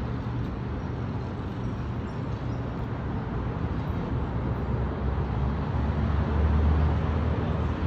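Downtown street traffic heard from a rooftop: a steady low rumble of passing vehicles that grows louder over the last few seconds.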